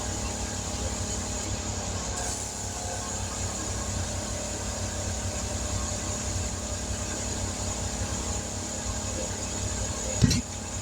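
Steady machine hum with a low rumble, with a single short knock about ten seconds in.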